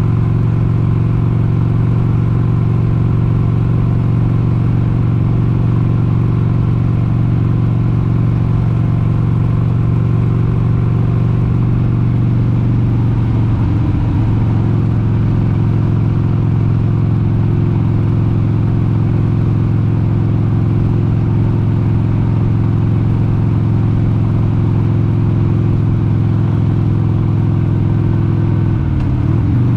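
1996 Harley-Davidson XLH883 Sportster's air-cooled 883 cc V-twin running steadily while riding at cruising speed. The engine note dips briefly and recovers about halfway through, and again near the end.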